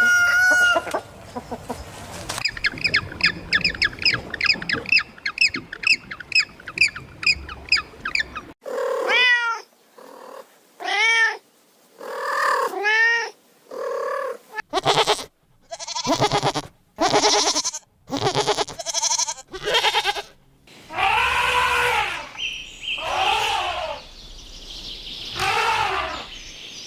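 A cat meowing repeatedly: short calls that rise and fall in pitch, several in a row, with some harsher noisy calls among them. Before the meows there is a quick, even run of high calls, about two to three a second.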